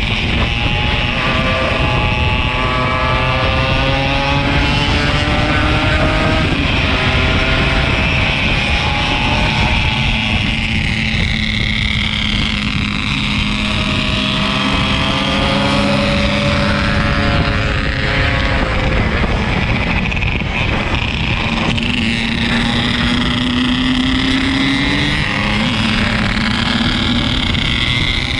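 Yamaha RX King 135's single-cylinder two-stroke engine running under way, its pitch slowly rising and falling with the throttle, over steady wind and road noise.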